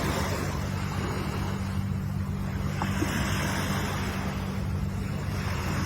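Ocean surf: waves breaking and washing in, the rush swelling twice, over a steady low rumble.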